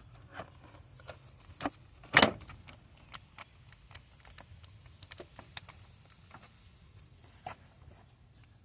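Scattered clicks and clinks of hand tools being handled during mechanical work, with one louder clatter about two seconds in.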